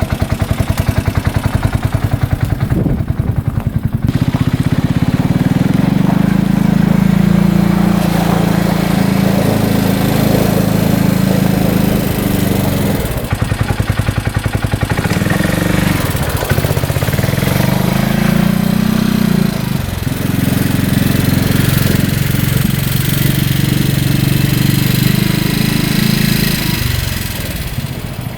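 Freshly rebuilt 2015 Polaris Ranger 570's single-cylinder engine idling, then running steadily under throttle as the UTV drives. It eases off twice in the middle and drops back to idle near the end.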